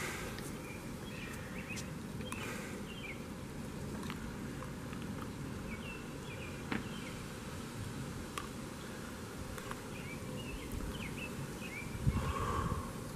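Birds chirping outside in short, scattered calls over a steady low background noise, with one brief louder low thump near the end.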